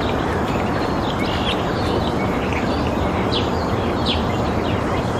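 Small birds chirping in short separate notes, several times, over a steady hiss of outdoor background noise.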